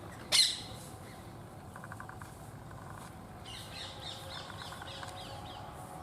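Indian ringneck parakeets calling: one loud, harsh screech about half a second in, then a rapid run of short, shrill calls, about four a second, starting about three and a half seconds in.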